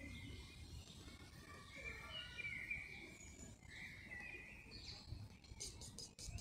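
Songbirds chirping, short whistled notes and glides, over a low outdoor rumble. Near the end, a quick run of soft, evenly spaced rasps, about six a second.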